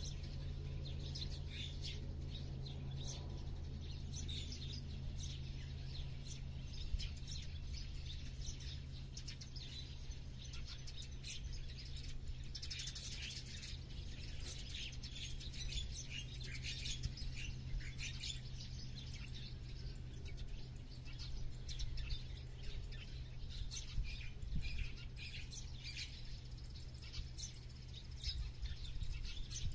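Many small birds chirping and twittering in a countryside dawn-chorus style, the calls thickest about halfway through, over a steady low hum.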